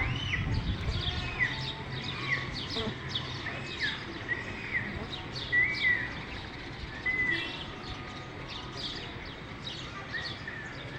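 Songbirds calling: one bird repeats a short arching note about once a second, pausing briefly near the end, while many quick high chirps go on around it.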